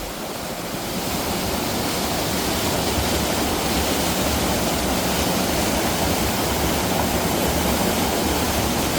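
Aira Force waterfall: a steady rush of falling water, growing a little louder over the first second.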